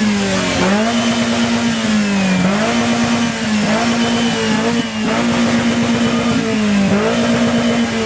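Car engine held at high revs, dipping briefly and climbing back every one to two seconds.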